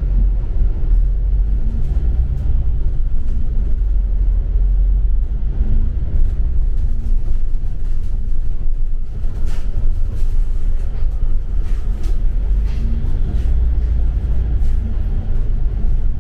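Cabin rumble of a double-decker city bus on the move: a steady, heavy low drone from the engine and the road, with a few faint rattling clicks about two-thirds of the way through.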